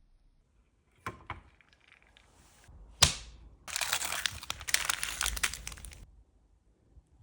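Close-up handling sounds: a few sharp clicks, then one loud snap about three seconds in, followed by about two seconds of dense crackling, like something being crushed or crinkled.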